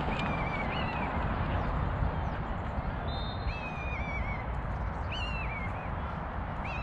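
A bird calling several times, each call drawn out and falling in pitch in steps, over a steady rushing background noise.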